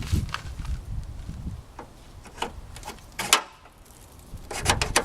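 Plastic headlight housing clicking and knocking as it is worked back into its mounting by hand. A sharp click comes about three seconds in and a quick cluster of knocks near the end.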